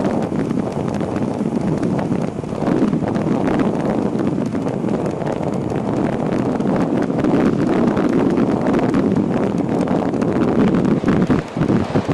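Steady, loud wind rush buffeting the microphone of a camera riding along on a moving e-bike, with a couple of brief dips about eleven and a half seconds in.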